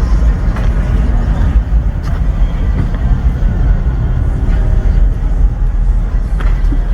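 Loud, steady low rumble of car engines running.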